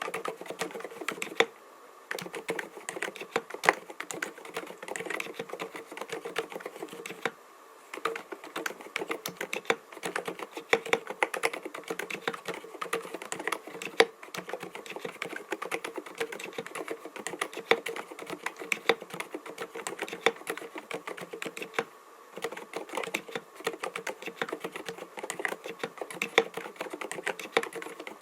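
Typing on an mStone Groove T 87A keyboard with 45 g low-noise Milky switches: a fast, continuous run of keystrokes, broken by short pauses three times.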